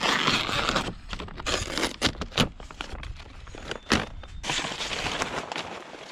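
Greenhouse plastic sheeting crinkling and scraping in irregular bursts as it is handled, with a few sharp knocks.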